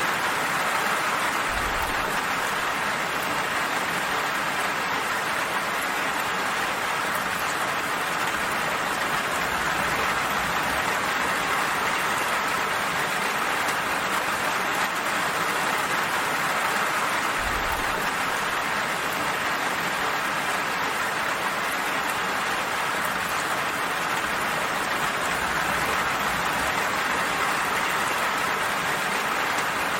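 Gentle rain falling steadily, an even hiss of drops.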